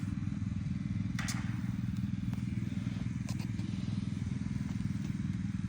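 A motor running steadily with a low, even drone, and a few faint clicks and rustles over it about one and three seconds in.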